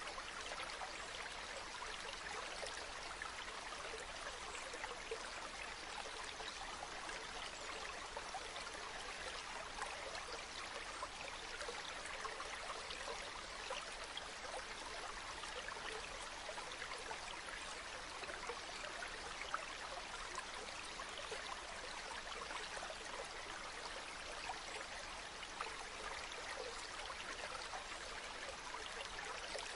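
A river babbling steadily, with scattered small ticks and an occasional slightly louder pop.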